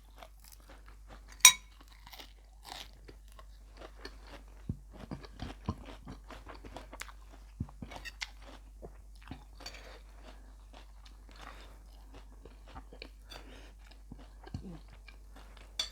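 Close-miked chewing and crunching of food: a mouthful of beef laab eaten with fresh raw vegetables. There are many small crisp crunches throughout and one louder crunch about a second and a half in.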